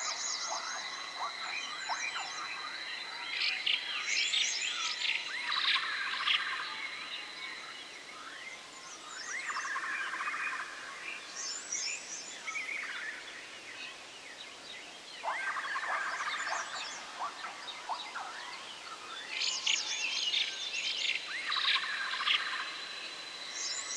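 Forest ambience of several birds chirping and warbling in repeated clusters, over a steady high-pitched whine that drops out about a third of the way in and returns near the end.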